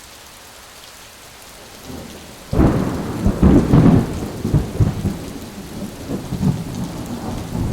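Thunder: a low rumble breaks in suddenly about two and a half seconds in and rolls on unevenly, over a steady hiss of rain.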